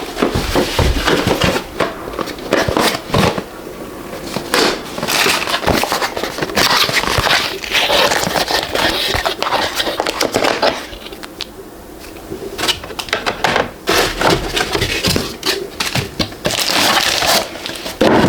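Plastic packaging crinkling and rustling as parts are unwrapped and handled, with irregular clicks and knocks, easing off briefly a little past the middle.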